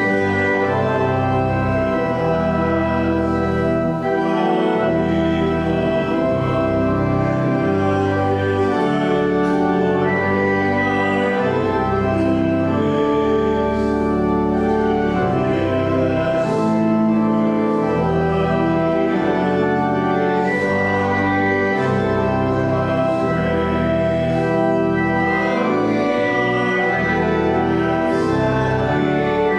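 Organ music: sustained chords held and changing every second or two over a steady bass line.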